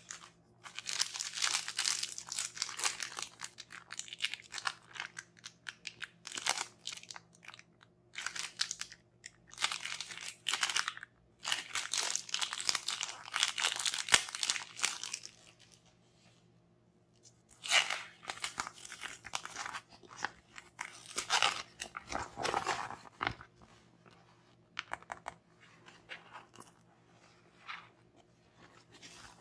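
Close-up crunching and crinkling from hands working dinosaur mystery toys and their packaging. It comes in stretches of a few seconds with short pauses, and is quieter and sparser near the end.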